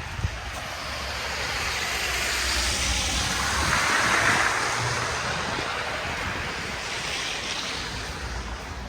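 A vehicle's tyres hissing through slush on a snowy street as it passes. The hiss swells to a peak about four seconds in and then fades, over a low rumble.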